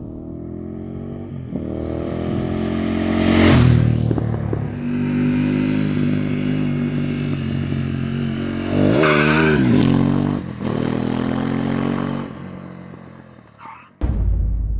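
Harley-Davidson Revolution Max 1250 V-twin motorcycle engine accelerating past, loudest about three and a half seconds in, then running steadily with a quick rise and fall in revs about nine seconds in before fading away. A sudden low boom starts near the end.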